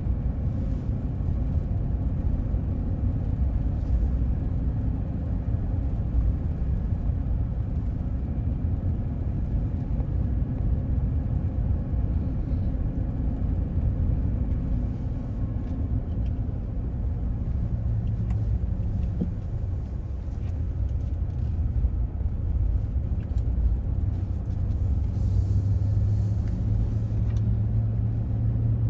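Cabin road noise and engine rumble of a three-quarter-ton pickup truck climbing a mountain road: a steady low drone, with the engine hum growing stronger in the last third.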